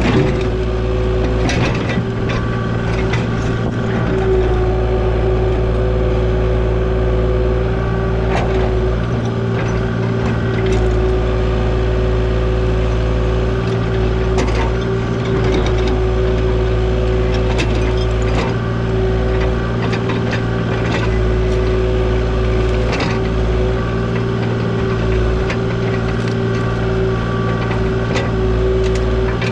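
Diesel engine of a compact earthmoving machine running steadily, with scattered clanks and knocks from its moving metal parts.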